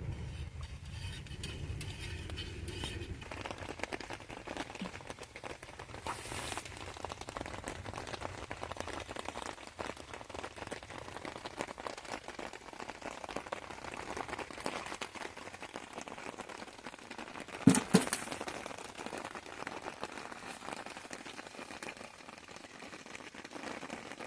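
Steady patter of rain, a dense run of small drops. A low hum fades out in the first few seconds, and a sharp double knock sounds about eighteen seconds in.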